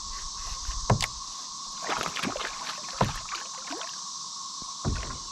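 Knocks and thumps on a plastic kayak hull as a freshly caught bass is handled aboard, three louder ones about a second, three seconds and five seconds in, with smaller clatter between, over a steady high hum.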